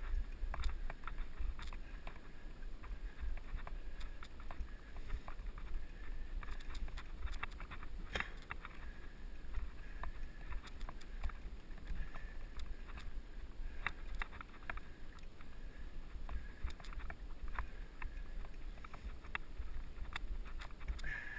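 Mountain bike riding down a dirt trail, heard from a helmet-mounted action camera: a steady low wind rumble on the microphone with many scattered clicks and rattles from the bike and tyres on the ground, one sharper knock about eight seconds in.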